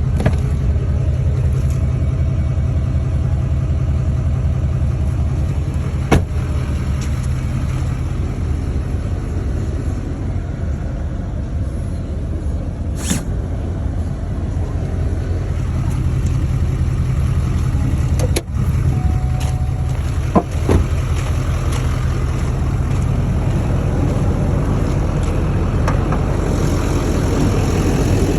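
Duramax diesel V8 of a tuned, emissions-deleted 2013 GMC Sierra Denali HD running steadily through a 4-inch straight-pipe exhaust, with a deep even rumble of firing pulses. A few brief sharp clicks stand out over it.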